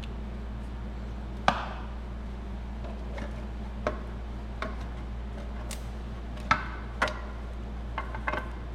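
About seven short, sharp clicks and knocks at irregular intervals, the loudest about a second and a half in, from hand tools and parts being handled while working in the Ford Escort's open valvetrain, over a steady low hum.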